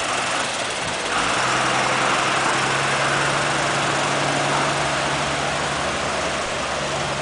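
Steady rushing noise of floodwater surging, with a steady low hum coming in about a second in.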